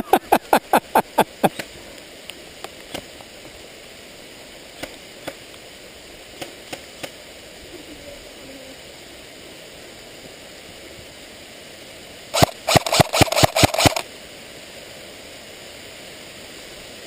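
Airsoft gun shots: a quick string of about eight shots at the start, a few single shots in the middle, and another fast string of about ten shots near the end. Steady rain hiss underneath.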